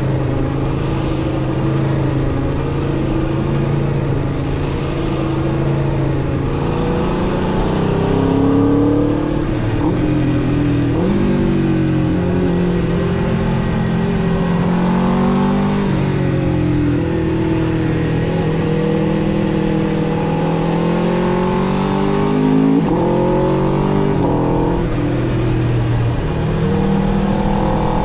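Aprilia RSV4 RR's V4 engine through its stock exhaust, accelerating on the road: the engine note climbs in pitch and drops back at each gear change, several times over, then settles into steadier cruising near the end.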